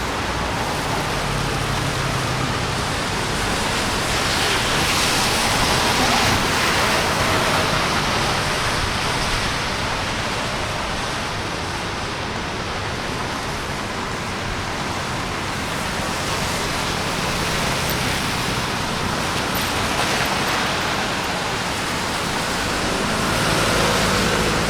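Steady hiss of rain and tyres on wet city streets. The noise swells a few times as vehicles pass.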